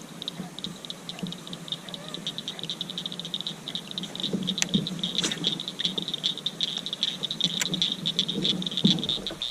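Night chorus of calling frogs: a steady, high, rapidly pulsing trill, with a few scattered sharp clicks over it.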